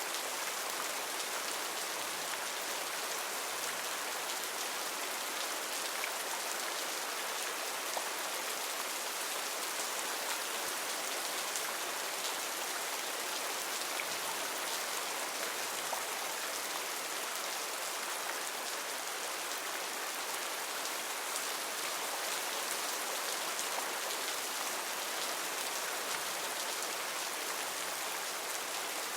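Heavy rain falling steadily on rainforest foliage, a constant hiss with scattered individual drops ticking.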